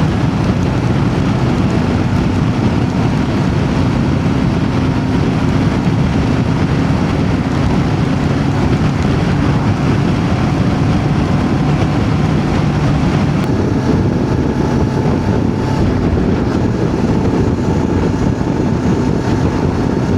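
Voge DS525X's parallel-twin engine running at a steady cruise, with wind noise on the helmet microphone. The engine pitch shifts slightly about two-thirds of the way through.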